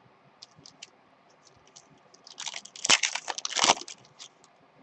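Light scattered clicks, then about a second and a half of dense crinkling and crackling with two louder snaps: plastic or foil packaging being handled while opening packs of trading cards.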